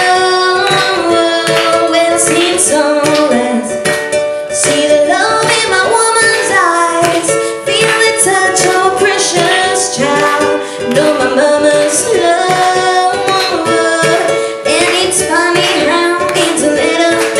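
Live music: a woman singing over a strummed acoustic string instrument, with a steady strumming rhythm.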